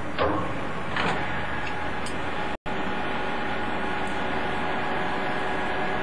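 Capstan lathe running at a low spindle speed of 120 rpm for a tapping operation: a steady machine hum with faint steady tones and a couple of light knocks in the first second. The sound cuts out for an instant about two and a half seconds in.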